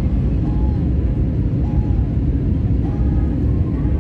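Airliner cabin noise in flight: the steady low roar of the engines and airflow heard from a passenger seat, with a faint short tone repeating about once a second.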